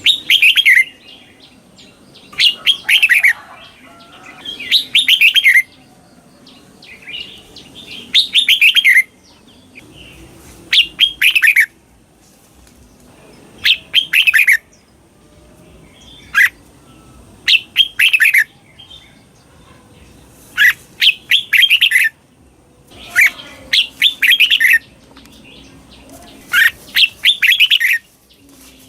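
Red-whiskered bulbul singing short, loud warbled phrases of quick falling notes, one phrase every two to three seconds. This is the 'doubled' song style that bird keepers play to train caged bulbuls.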